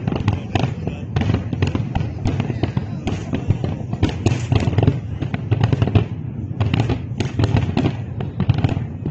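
Aerial fireworks display bursting: many bangs and crackles in quick succession, with a short lull about six seconds in.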